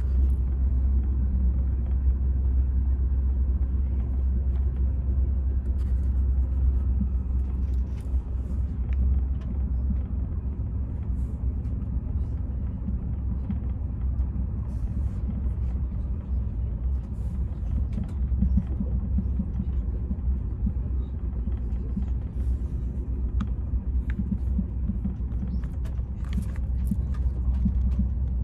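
Steady low rumble of a moving passenger train heard from inside the carriage, with scattered faint clicks and scratches from a pen and the pages of a puzzle book.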